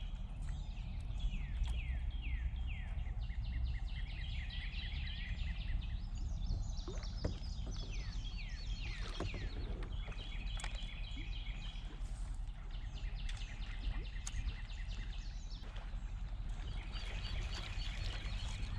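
Songbirds singing: many rapid repeated trills and short downward-sliding whistles, over a steady low rumble.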